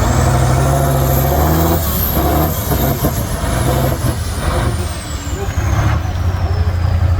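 Heavy truck engine running steadily, with a thin high whine that rises over the first couple of seconds and then slowly falls away.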